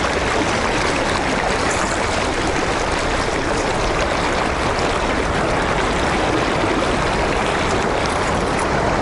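River water rushing steadily, a constant even wash of flowing current.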